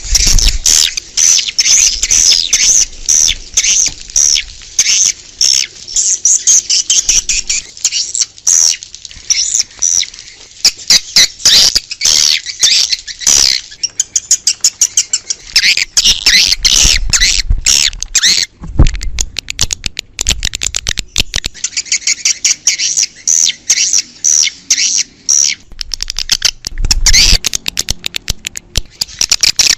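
Edible-nest swiftlets chirping in a dense, continuous chorus laced with rapid clicks. This is a swiftlet lure call, played to draw the birds in to roost and nest.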